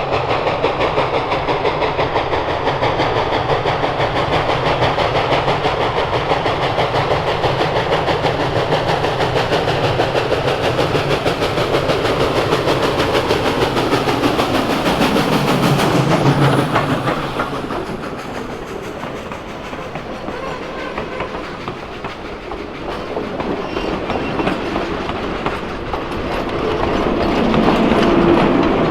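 Steam train running on the rails: steady rushing and wheel clatter, easing off about two-thirds of the way through. A steady tone sets in near the end.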